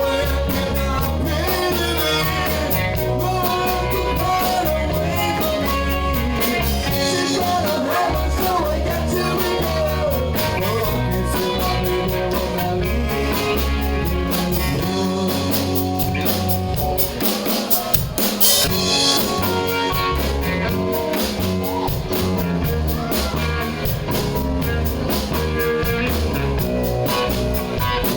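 Live band playing a rock-and-roll song with drum kit, guitars and singing, at a steady tempo; a cymbal crash rings out about eighteen seconds in.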